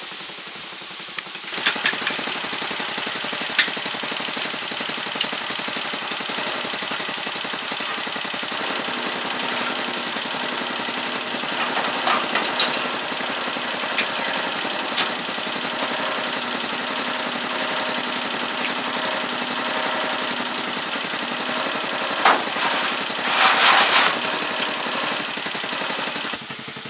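Small engine running steadily with a rapid firing beat, starting about a second and a half in and cutting off just before the end. A few sharp clicks sound over it, and a louder rushing burst comes near the end.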